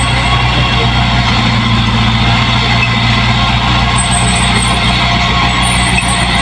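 Diesel engine of heavy farm machinery running steadily at a constant speed, with a deep, even drone and a broad mechanical clatter over it.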